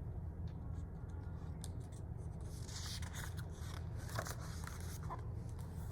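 Picture-book page being turned: faint paper rustles and light ticks over a steady low hum.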